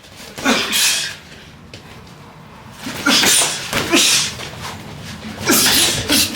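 Boxers' sharp hissing exhales, about four short bursts as punches are thrown during a sparring round.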